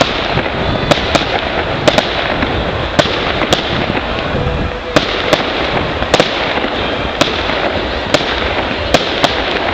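Fireworks display: aerial shells bursting in a rapid run of sharp bangs, often two or more a second, over a continuous dense crackle and hiss.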